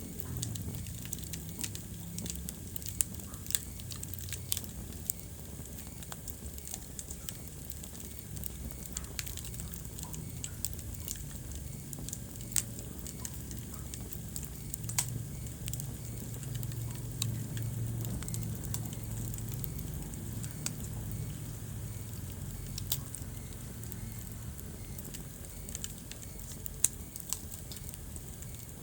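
Wood fire burning in a fireplace: irregular crackles and sharp pops of burning logs over a steady low rumble of flame.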